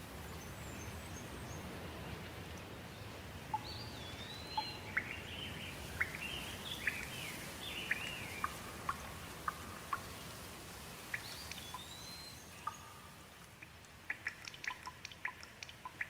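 Steady rain falling, with a bird calling in a run of short chirps and rising-and-falling whistles through the middle. Near the end the rain thins and quick drips take over.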